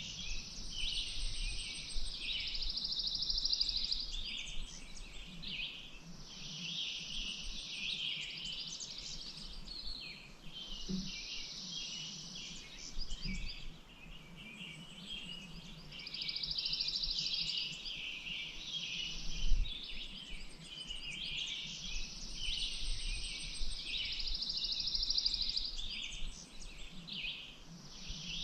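Songbirds singing, one repeating a fast trilled phrase every few seconds, with other chirps in between. One short low thump about two-thirds of the way through.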